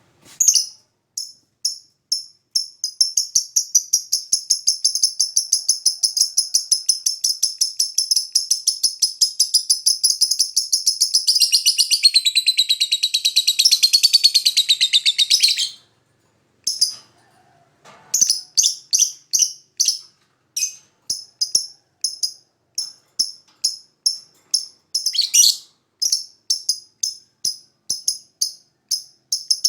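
Lovebird singing high-pitched chirps: a long, rapid chattering trill of about thirteen seconds that breaks off, then, after a short pause, a steady series of separate sharp chirps, about three a second.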